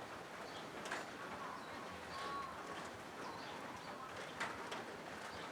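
Rain falling on a corrugated zinc roof: a steady hiss of drops, with two louder ticks of heavier drops on the metal. Short bird calls sound a few times over the rain.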